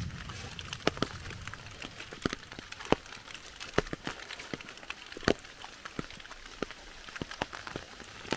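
Rain in a forest: a light steady patter with irregular, sharp drips of single drops falling from the trees onto wet leaves.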